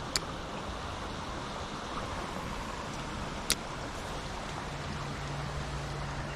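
Creek water running steadily, with two sharp clicks about three seconds apart.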